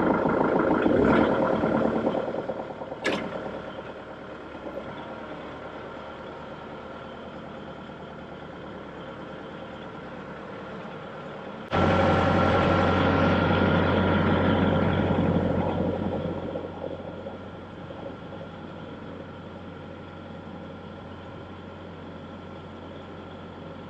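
Banjo music fades out, then a tractor engine runs steadily; about twelve seconds in it abruptly gets louder with a steady low hum for several seconds before dropping back.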